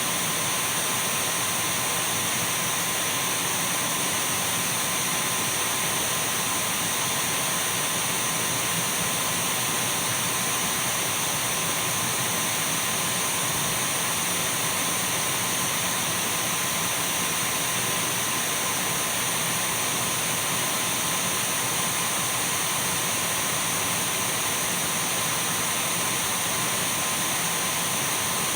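Dyson V12 cordless stick vacuum running steadily: an even rush of air with a thin, steady high-pitched motor whine and a fainter steady tone lower down.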